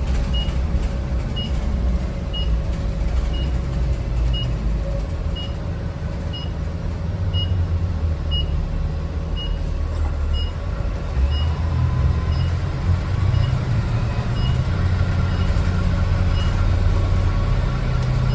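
Diesel truck engine running on the road, heard from inside the cab, with a short high beep repeating about once a second.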